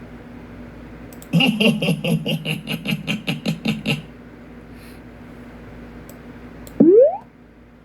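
A man's vocal sound effect: a rapid string of pitched pulses, about five a second, for nearly three seconds, then a short rising whoop near the end.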